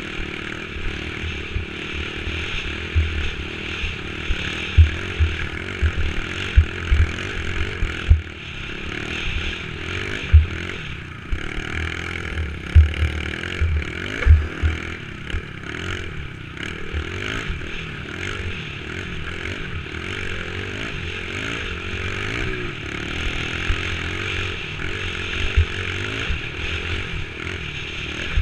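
Dirt bike engine running under way, its pitch wavering as the throttle changes, over a steady rushing noise with frequent short dull thumps.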